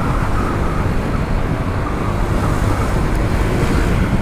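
Honda ADV 160 scooter under way: steady wind rush over the rider's microphone with the single-cylinder engine and road noise running underneath.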